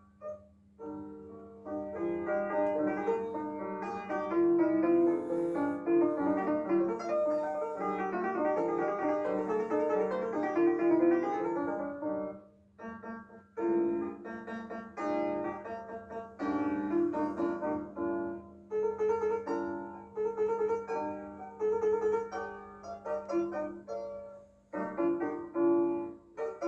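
Background instrumental piano music playing a flowing melody over a steady low hum, with a brief pause about halfway through.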